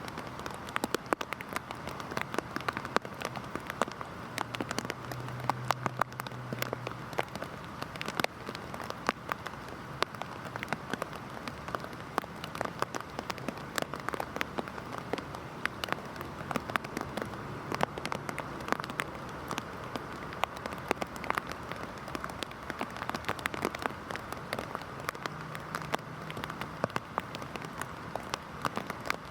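Heavy rain falling steadily, with a dense patter of individual drops striking a hard surface.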